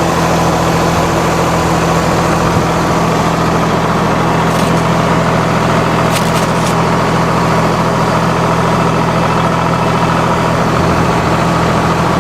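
Farm tractor engine running at a steady speed, with a few brief light clicks about midway.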